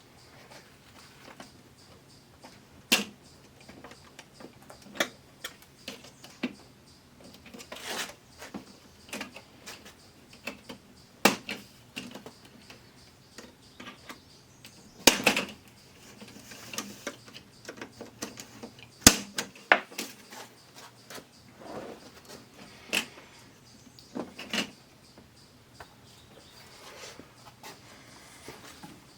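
Irregular plastic clicks, snaps and knocks as the plastic bezel of an LG LCD TV is pried loose from its clips, with a handful of sharp snaps spread among quieter handling.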